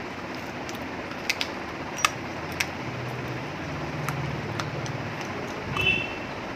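Close eating sounds of chicken and rice eaten by hand: sharp, scattered mouth clicks and chewing over a steady fan-like hiss. A low hum sounds in the middle, and a short high chirp near the end is the loudest moment.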